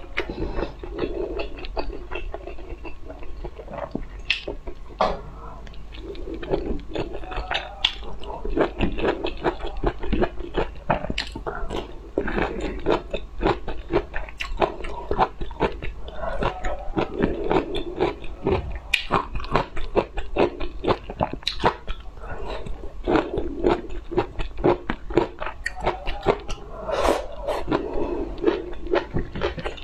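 Close-miked chewing and crunching of broccoli florets, with many sharp clicks of bites all the way through.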